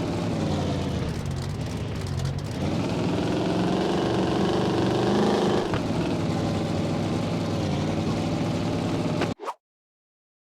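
Car engine running, its pitch rising slowly in a gentle rev and dropping back after a few seconds, then cutting off suddenly near the end.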